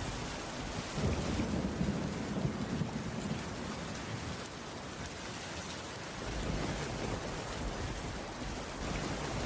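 Steady rainfall on a wooden cabin roof, with a low rumble swelling about a second in and again near the end.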